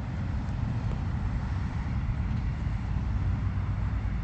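Steady low rumble of a vehicle on the move, even throughout with no sharp sounds.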